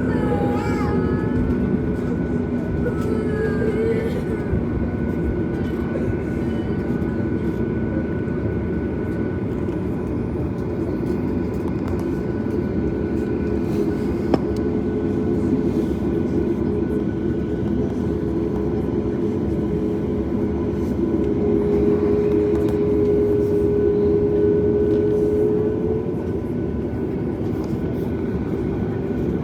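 Cabin noise inside a Boeing 737 MAX on the ground: the steady low rumble and hum of its CFM LEAP-1B engines at low power. About two-thirds of the way through, a humming tone grows louder and rises slightly for a few seconds, then drops back.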